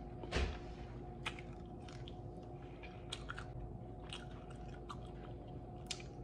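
Close-up mouth sounds of a person biting and chewing sauced chicken wings: irregular wet clicks and smacks, the loudest just under half a second in.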